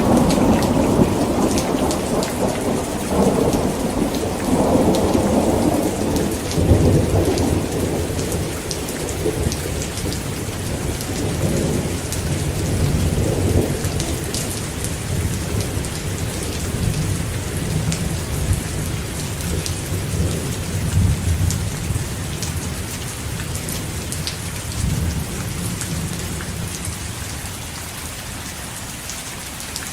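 Heavy rain falling steadily, with a long rolling rumble of thunder that is strongest in the first half and slowly dies away toward the end.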